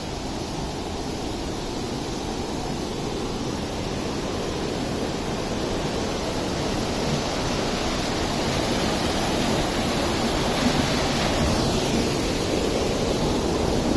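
Steady rush of flowing water, growing gradually louder as it draws nearer; loud enough to drown out a voice.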